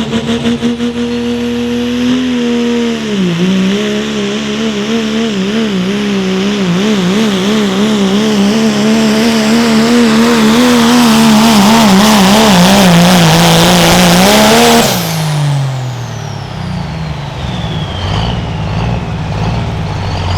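Turbocharged diesel pickup pulling at full throttle, its engine note wavering up and down as it grows louder. About fifteen seconds in the throttle is lifted: the engine drops toward idle and the turbo whistle winds down.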